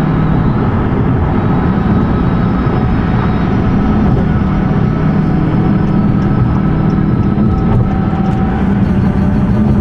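A car's engine and road noise at a steady drive.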